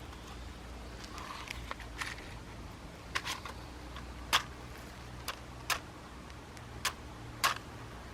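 A series of sharp, short clicks and snaps at irregular intervals, about six of them in the second half, from hands handling gear or wood while setting up a campfire.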